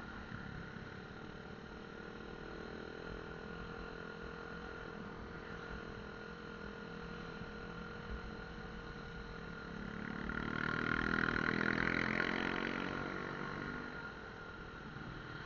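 Motorcycle engine running steadily on the road, with a louder engine sound swelling up about ten seconds in and fading away again over some four seconds.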